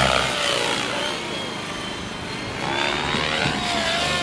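Radio-controlled helicopter flying, its whine gliding up and down in pitch.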